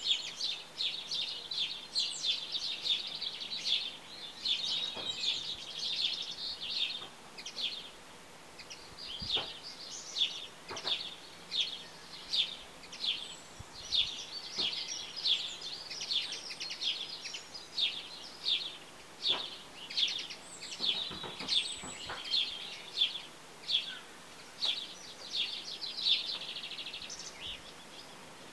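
A bird chirping over and over: short, high chirps about two a second, with a brief lull partway through.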